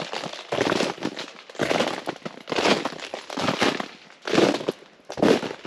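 Footsteps crunching through ice-crusted ground, a crisp crackling crunch with each step at a steady walking pace of about one step a second.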